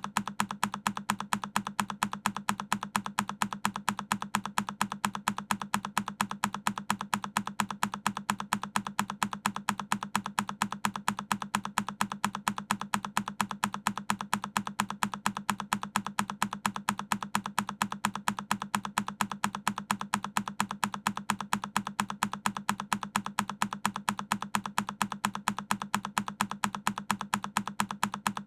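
A single key on a Keychron K10 mechanical keyboard being pressed, the same click repeating over and over at an even, rapid pace.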